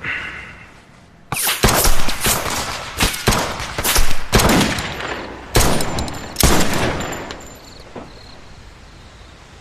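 A rapid string of about a dozen gunshots with echoing tails, starting about a second in and stopping after some six seconds.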